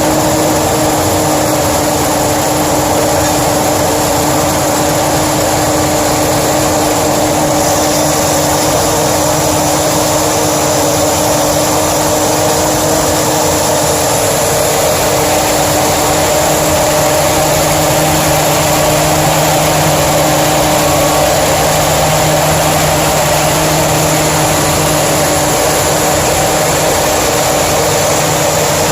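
Chevrolet 283 cubic-inch small-block V8 with a four-barrel Edelbrock carburetor, idling steadily through a standard exhaust.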